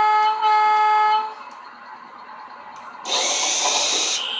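Lionel R16 subway set's onboard sound system sounding the train horn in two steady toots, the second ending about a second and a half in. About three seconds in comes a loud hiss of air lasting about a second, followed by a brief high tone.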